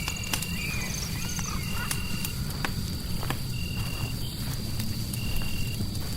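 Fireplace ambience: a steady low rumble of fire and white noise with scattered sharp crackles and pops. Over it runs a steady high insect drone, short even chirps about every second and a half, and a few rising-and-falling animal calls in the first second and a half.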